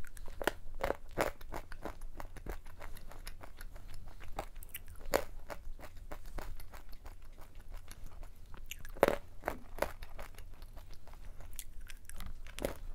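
Honey butter almonds being crunched and chewed close to the microphone: a steady run of crisp crunches, with louder bites about a second in, around five seconds in and around nine seconds in.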